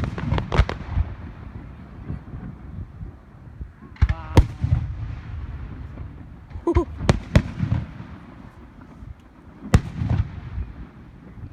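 Aerial fireworks shells bursting: a series of sharp bangs, several in quick pairs, each trailing off in a low rumbling echo.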